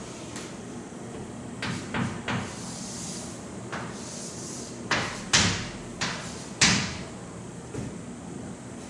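A series of irregular knocks and taps against a steady low background hum. The two loudest come a little past halfway, about a second apart.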